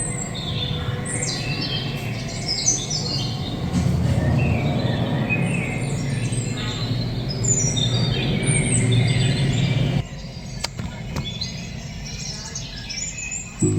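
Many small birds chirping and calling, short high notes and quick falling trills overlapping, over a steady low background rumble that drops away about ten seconds in.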